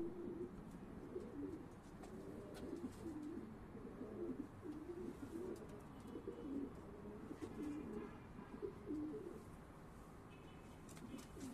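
Racing pigeons cooing: a run of low, warbling coos one after another, dying away about two seconds before the end.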